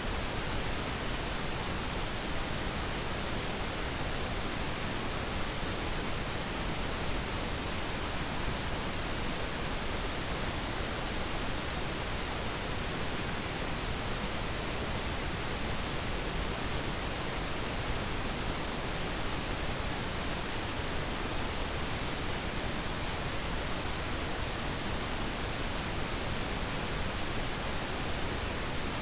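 Steady synthetic pink noise: an even, unbroken hiss with no changes or other sounds.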